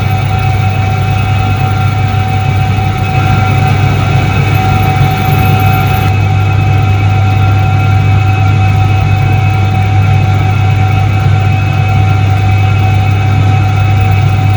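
Soviet Iset-3 washing machine from 1978 running, a steady, even hum.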